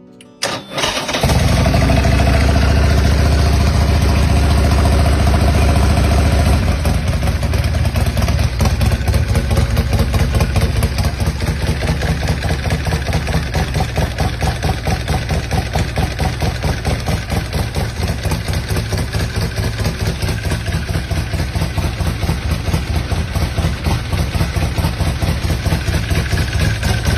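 Big 124-cubic-inch V-twin engine of a 2003 Bourget Fat Daddy chopper starting up about a second in. It runs fast and steady for several seconds, then settles into a loping, pulsing idle.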